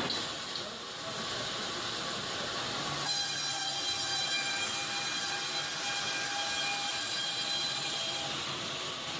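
Serra Alpina KE90 mobile bandsaw mill running with a steady hiss. About three seconds in, a high whine joins it and holds until near the end.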